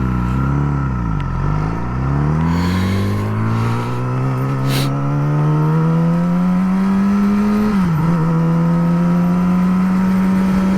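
Yamaha R6 sport bike's inline-four engine running under way. The revs dip and pick up again in the first second or so, then climb steadily for several seconds as it accelerates, fall suddenly with an upshift about eight seconds in, and hold steady after.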